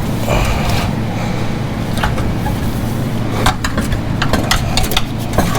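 Metal exhaust parts knocking and clinking as an old cat-back exhaust is worked loose and manoeuvred out, with scattered sharp knocks mostly in the second half, over a steady low hum.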